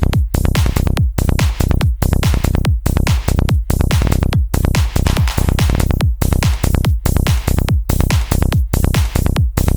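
Psytrance music with a fast, steady beat, each hit sweeping quickly down in pitch over a constant deep bass, with analog modular synth effects layered on top.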